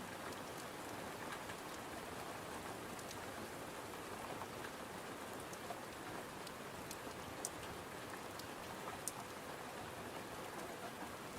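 Steady rain falling, an even dense hiss, with a few scattered sharp ticks or crackles through it.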